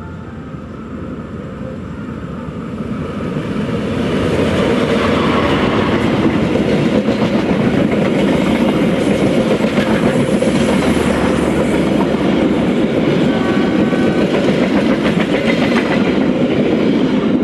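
Passenger train running past on the station tracks. The wheels clatter over the rails, and the sound builds over the first few seconds as the train comes close, then stays steady and loud as the carriages go by.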